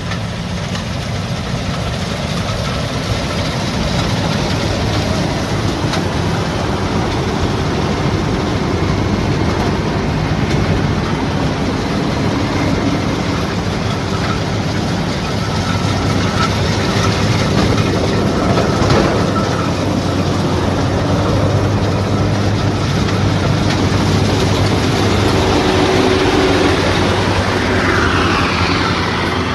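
Rice combine harvester running steadily, its engine and threshing machinery working together. A brief high chirp comes near the end.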